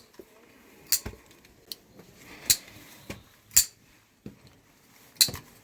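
Kansept Loki folding knife being worked open and shut, its blade snapping into place and locking with a series of sharp metallic clicks, roughly one every half second to second.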